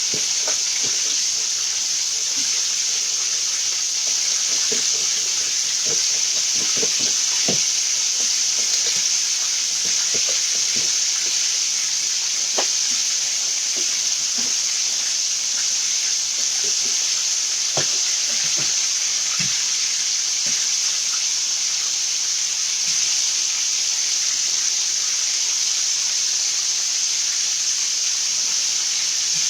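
Thin pieces of chicken frying in a hot skillet: a steady sizzling hiss with scattered small pops and crackles.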